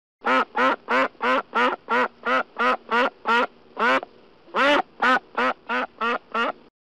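A duck quacking in a fast run of short quacks, about three a second: eleven or so, a brief pause a little past halfway, then about six more.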